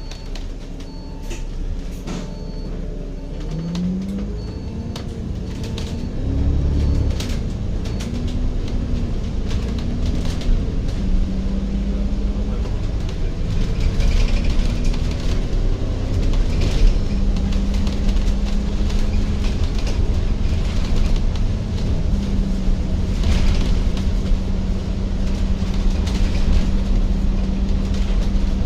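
Riding inside an electric train: a run of short electronic beeps at first, then the motors whine in shifting pitches as it gets going, settling into a steady hum over the growing rumble of the running train.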